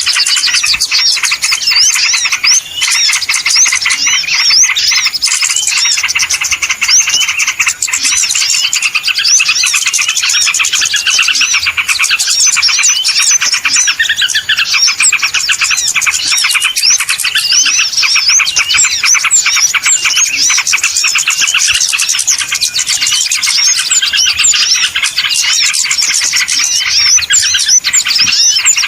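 Dense, noisy chorus of many small birds chirping and chattering without a break, a lure sound used to draw small birds into a trap.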